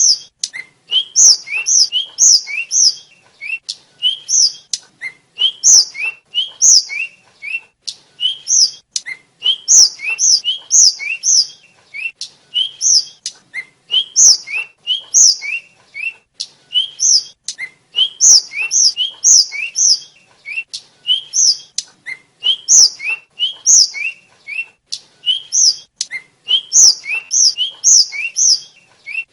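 Tledekan flycatcher (sikatan) singing a fast, repetitive song of short whistled notes: a lower note sliding upward paired with a higher, brighter note, strung together in quick runs with brief pauses between phrases.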